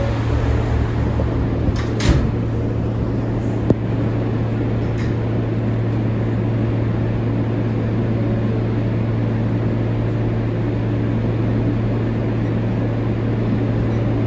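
Inside an R143 subway car running along the track: a steady rumble with a constant low hum. There is a sharp knock about two seconds in and a shorter click a couple of seconds later.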